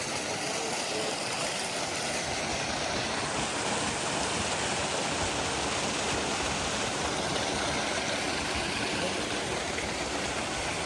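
Running water: a steady, even rush of a stream or water channel.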